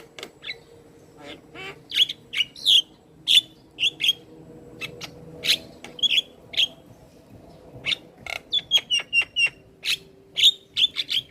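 Javan myna singing a rapid, varied string of short whistled notes and sharp clicks.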